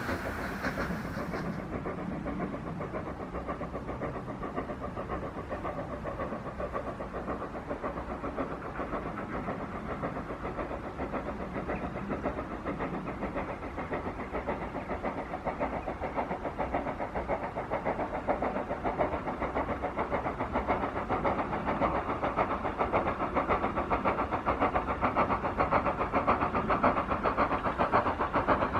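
Hunslet Austerity 0-6-0 steam locomotive working a train, its exhaust beats steady and growing louder as it draws nearer.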